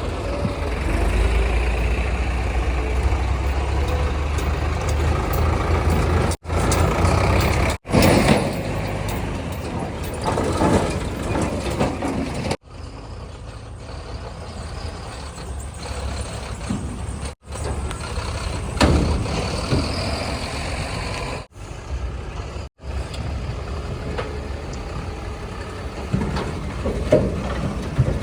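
Heavy diesel vehicles running: a backhoe loader, tipper trucks and tractors. The sound is a deep engine drone in the first part, then lighter engine noise broken by several abrupt cuts between shots, with a few short knocks.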